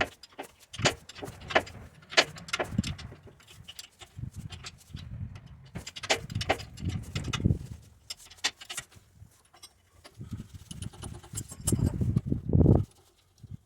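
Irregular metallic clinks and knocks of tools and parts being handled during repair work on an electric forklift, with dull low thumps between them, the loudest just before the end.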